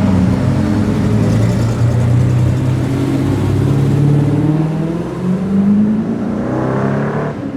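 A car engine revving hard as the car accelerates away. It runs loudly and steadily, its pitch jumps up about five and a half seconds in and climbs again near the end.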